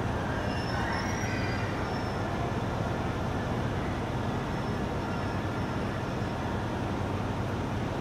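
Steady low rumble and hum of trains at a station, with KiHa E130 diesel railcars standing at the platform.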